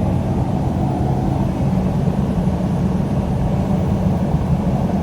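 Steady low rumble of a moving vehicle heard from inside its cabin: engine and tyre road noise at cruising speed, even throughout.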